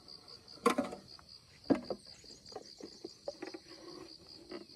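An insect's steady high-pitched pulsed chirping, about five pulses a second, cricket-like. A few sharp clicks and rustles come over it, the loudest about a second and two seconds in.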